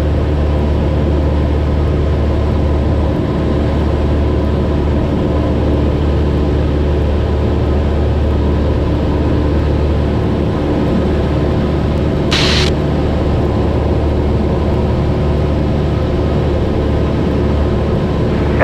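Cessna 172's engine and propeller droning steadily in flight, heard from inside the cabin. A brief hiss cuts in about twelve seconds in.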